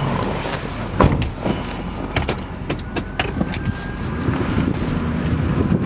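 6.6L Duramax turbo diesel engine running steadily, with a loud knock about a second in and a string of clicks and knocks over the following two seconds or so.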